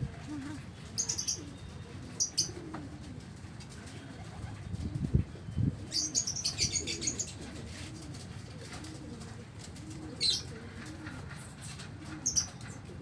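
Pigeons or doves cooing, a string of low rising-and-falling calls repeated about every half second, with several short bursts of wing flapping. Two dull thumps sound about five seconds in.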